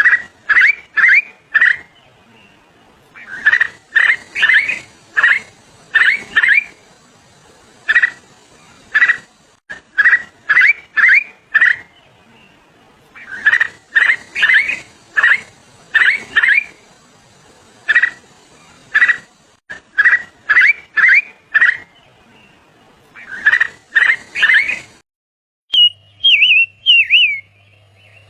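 A bird calling loudly in quick runs of short, sharp notes, from a few to about eight at a time, the runs repeating every couple of seconds. Near the end the runs stop and a fainter, wavering whistle follows.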